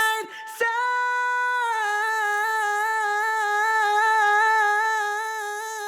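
A sung vocal holding one long note, made from a split and repeated vowel slice and processed with Logic's Platinum Reverb and a multiband compressor (Multipressor). A slight quick wobble in pitch comes in about two seconds in.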